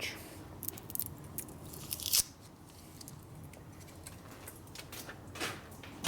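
Small metal parts handled on a workbench: scattered light clicks and rustles, with a short scrape about two seconds in and a fainter one near the end.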